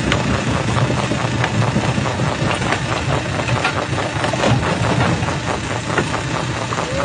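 Jaw crusher running, with a steady low drone and frequent irregular sharp cracks and knocks as rock is broken between the jaws.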